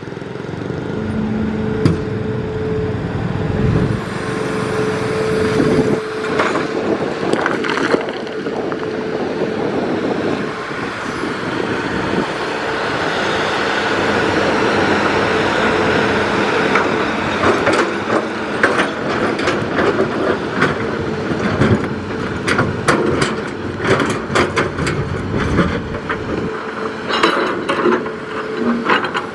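Hitachi Zaxis excavator working: the engine and hydraulics run steadily with a held whine, and from just past the halfway point frequent knocks and clanks are added.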